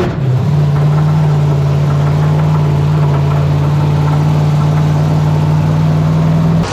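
Monster truck engine held at steady high revs, one unchanging note for about six seconds, then dropping off sharply at the very end.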